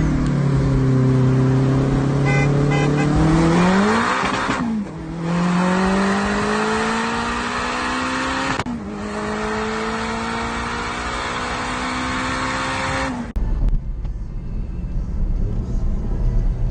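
Volkswagen GTI engine at full throttle, pulling hard through the gears. Its pitch climbs steadily, drops at two quick upshifts about four and a half and eight and a half seconds in, then climbs again. About thirteen seconds in the driver lifts off and the engine falls to a low, uneven running sound.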